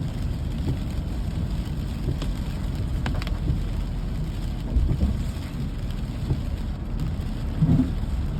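Steady rain, with a heavy low rumble underneath and a few sharp drip-like ticks about two and three seconds in.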